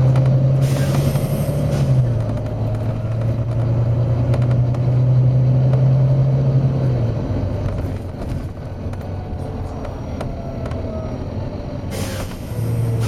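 Volvo B9TL bus's diesel engine running, its note dropping about two seconds in and fading out after about seven seconds, with two bursts of compressed air hissing from the bus's air system, one near the start and one near the end.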